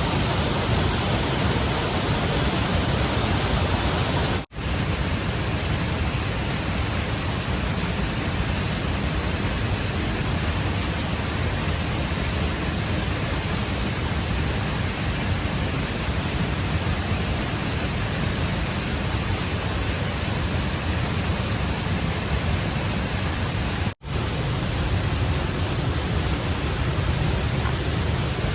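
Fast-flowing stream water rushing steadily, an even hiss, cut off for an instant twice.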